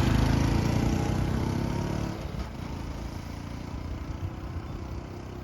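Background music fading out over the first two seconds, leaving a small motorcycle engine running steadily underneath, most likely the Honda Super Cub.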